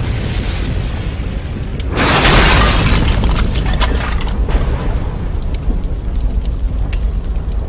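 Volcanic eruption sound effects: a continuous deep rumble, with a loud crashing burst about two seconds in and scattered sharp cracks of falling debris.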